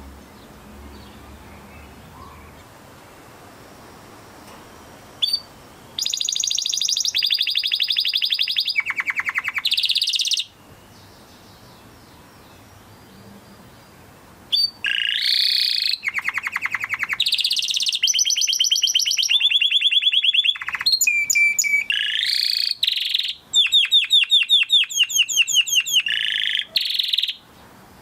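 Canary singing in phrases of fast trills and rapidly repeated high notes. The song begins about six seconds in after a faint hiss, breaks off for a few seconds midway, then resumes in longer rolling phrases.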